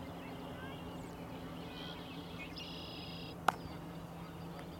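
Open-air field ambience with a steady low hum, a bird giving short buzzy calls twice around the middle, and one sharp crack about three and a half seconds in.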